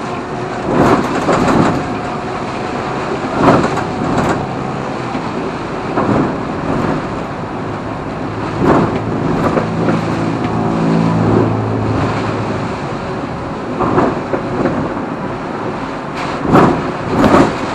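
Steady road traffic with repeated loud whooshes of strong wind gusts, and a heavy vehicle's engine hum through the middle.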